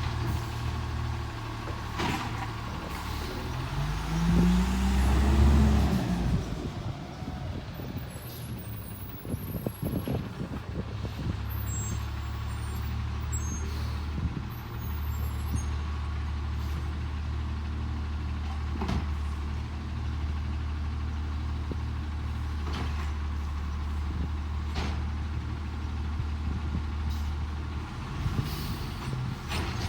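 Autocar ACX garbage truck with a McNeilus Autoreach arm running steadily. About four seconds in the engine revs up with a rising pitch for a couple of seconds, the usual rev-up to drive the automated arm's hydraulics. Scattered knocks and clanks follow, with a few single sharp clicks later.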